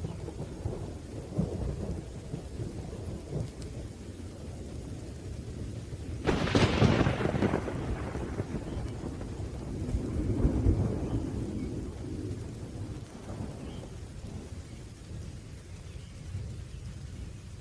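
Thunderstorm: rain falling under continuous rolling thunder. A sharp thunderclap breaks about six seconds in and fades over a couple of seconds, and the rumble swells again around ten seconds.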